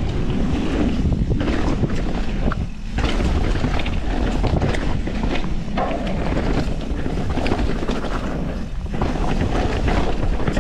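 Wind rushing over an action camera's microphone while a mountain bike descends fast, with its tyres rumbling over rough dirt and the bike clattering over bumps.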